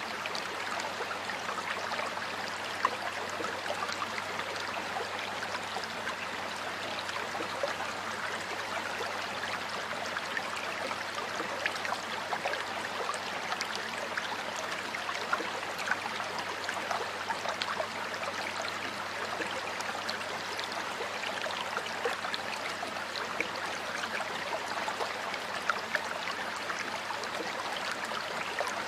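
Flowing stream water, a steady rush with many small splashes and trickles.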